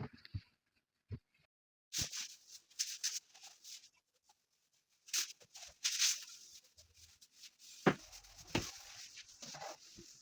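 Irregular rustling and scraping with a few light clicks and knocks, coming in short bursts with gaps between them: household things being handled and wiped during cleaning.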